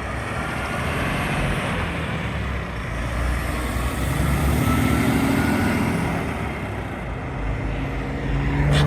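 Heavy truck's diesel engine running with road traffic noise, growing louder about halfway through and then easing off as the truck moves off.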